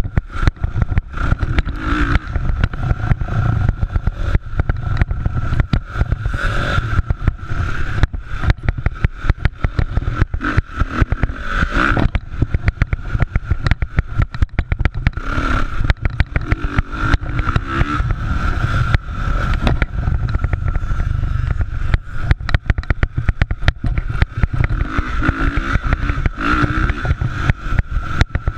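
Motocross motorcycle engines running and revving in a race, a continuous rough, rumbling engine noise with rapid flutter in loudness.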